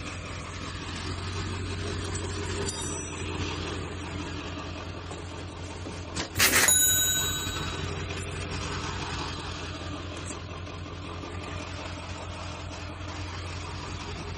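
A piece of scrap metal strikes metal with one loud ringing clang about six seconds in, the ring dying away over about a second, after a few lighter metallic clinks near three seconds. Under it a vehicle engine idles steadily.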